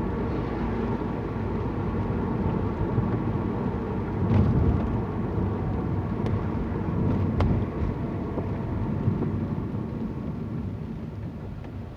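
Car driving, heard from inside the cabin: a steady engine and road-noise rumble, with two short knocks about four and seven seconds in.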